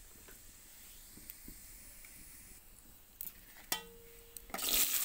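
Cumin seeds sizzling faintly in hot oil in an iron wok. Near the end there are two clinks against the wok, the second ringing briefly, then diced potatoes slide into the oil and it bursts into a loud, steady sizzle of frying.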